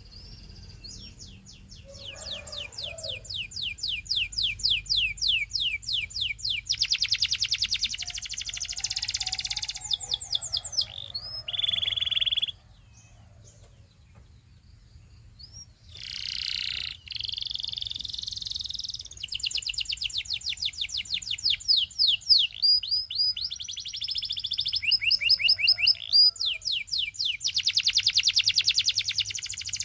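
Canary singing: long runs of fast, high trills of rapidly repeated notes, with a short steady whistled note near the middle, followed by a break of a few seconds before the trilling resumes.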